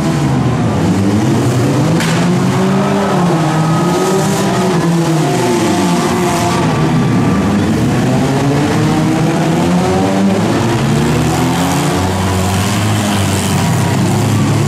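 Several four-cylinder demolition derby car engines revving at once, their pitch rising and falling as the cars accelerate and back up, with a sharp crash about two seconds in as cars collide.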